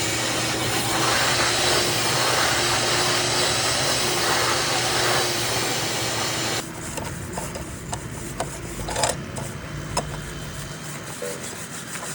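A power tool runs under load on a construction site, a dense rasping noise with a steady motor tone, and stops about six and a half seconds in. Scattered knocks and clicks of construction work follow.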